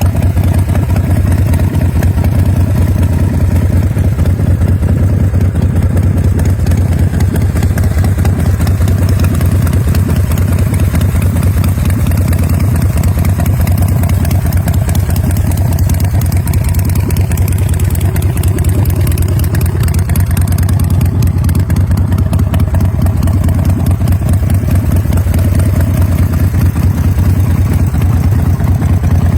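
Motorcycle V-twin engine idling steadily with a lumpy, pulsing beat; this is the 2004 BMC Notorious 918 chopper's RevTech 100 cubic inch engine.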